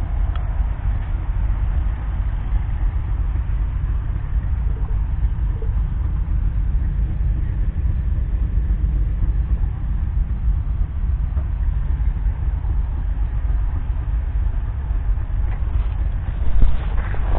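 The McCormick X7.690's 6.7-litre six-cylinder diesel runs steadily with a heavy low rumble, and a few short knocks come near the end.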